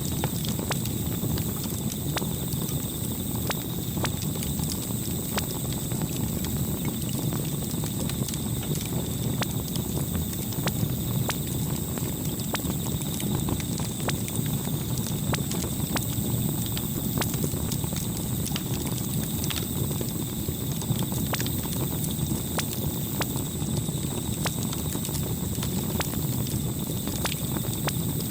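Campfire burning, with a steady low rumble of the flames and frequent small sharp crackles and pops of burning wood.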